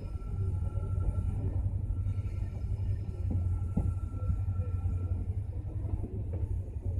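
Passenger train pulling out of a station, heard from on board: a steady low running noise of the moving coaches, with a couple of light clicks near the middle.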